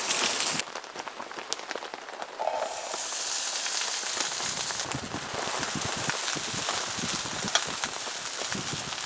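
Rain pattering on a tent shelter: a dense patter of small drops over a soft hiss. It drops away suddenly about half a second in and comes back louder about three seconds in.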